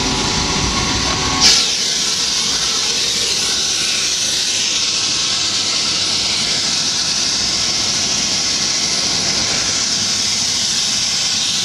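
Steady rushing hiss of a tour helicopter's cabin in flight, turbine and airflow noise. A short click comes about a second and a half in, after which the deeper rumble drops away and the high hiss carries on alone.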